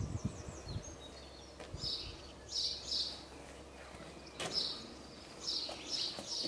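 Small birds chirping: short high chirps repeated in little clusters, with a sharp knock about four and a half seconds in.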